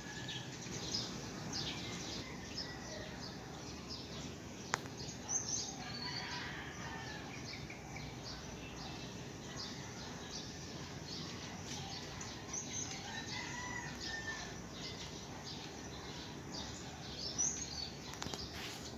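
Birds chirping repeatedly in short, high calls over a steady background noise, with no clear single event standing out.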